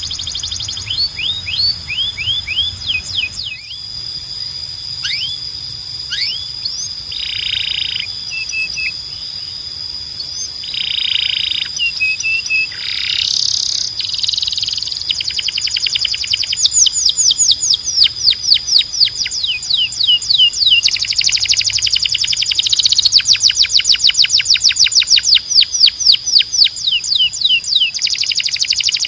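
Domestic canary singing: rolls of fast, repeated falling whistled notes broken by a few short buzzy phrases, the rolls getting quicker and louder in the second half.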